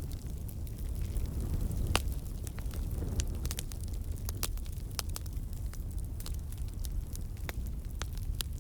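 Campfire burning: a steady low rumble of flames with frequent sharp, irregular crackles and pops of burning wood, one louder pop about two seconds in.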